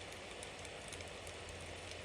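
Bonfire burning: a steady hiss and low rumble with scattered faint crackles.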